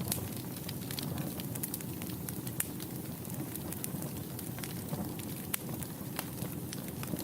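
Wood fire burning in a fireplace: a steady low rumble of flames with a dense run of small crackles and a few sharper pops.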